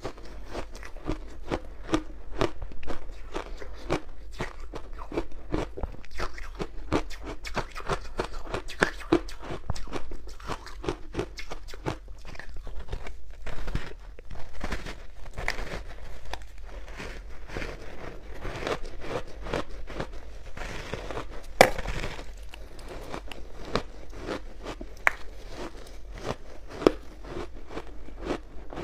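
Close-miked crunching and chewing of ice cubes dusted with matcha powder: a dense, continuous run of crackling crunches, with one sharp, louder crack a little past the middle.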